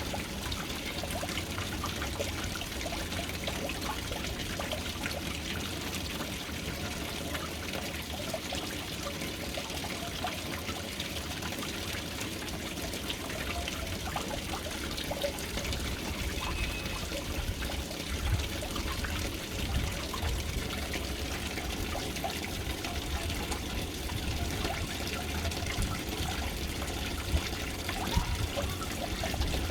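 Water pouring steadily into a household water tank, with a continuous trickling and splashing.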